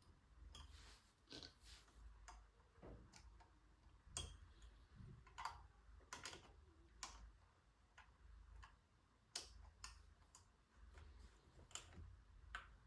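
Irregular light clicks and taps of hand work on drum brake parts, with a faint low hum underneath.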